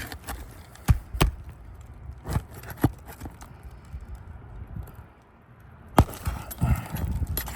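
Irregular sharp knocks and taps of a hand tool against roof shingles as roofing nails are worked loose and pulled. There is a short lull in the middle, then the knocks start again.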